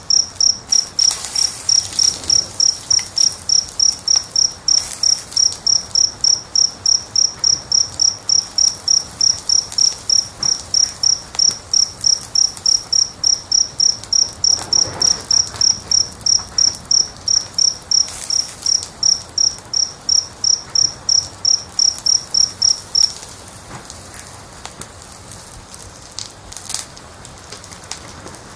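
A cricket chirping steadily at about three high chirps a second, stopping abruptly about 23 seconds in. Underneath is a faint hiss with a few soft crackles.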